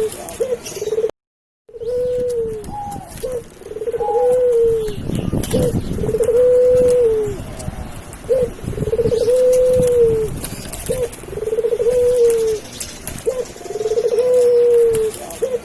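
Domestic dove cooing repeatedly, each phrase a short note followed by a long held coo, about every two seconds. A brief scuffling noise comes about five seconds in.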